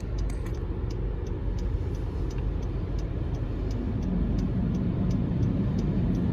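Car on the move: a steady low rumble of engine and road noise that grows a little louder about four seconds in, with faint, evenly spaced ticks over it.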